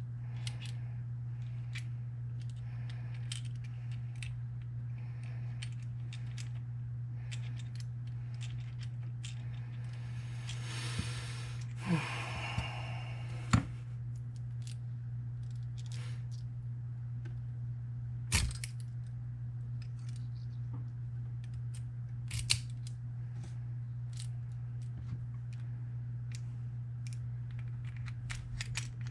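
Sharp clicks and light handling of small padlock parts during reassembly, with a short rustle about ten seconds in, over a steady low hum.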